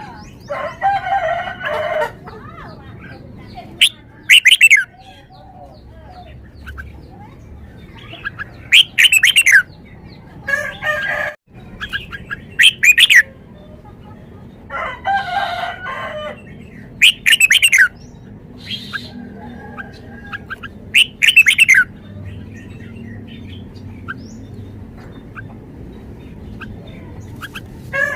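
Caged red-whiskered bulbul singing: short, loud whistled phrases repeated every two to four seconds. Twice, about a second in and midway, a longer and lower call comes from a rooster crowing in the background.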